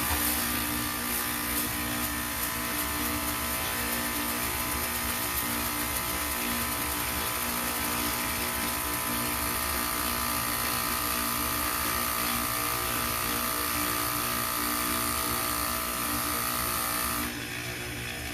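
A small electric motor running steadily with a high hiss and a thin whine, cutting off suddenly near the end.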